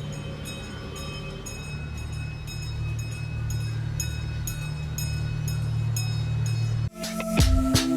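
Zoo train running: a steady low drone with light regular clicks about twice a second. About seven seconds in it cuts off suddenly and music with percussion starts.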